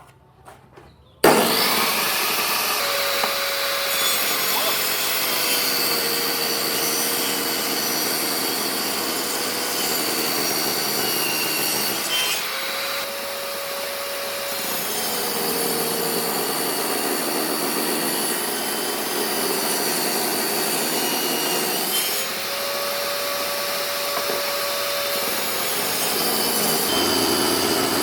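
A handheld power tool starts abruptly about a second in and runs continuously against wood, its pitch dipping and rising as the load on it changes.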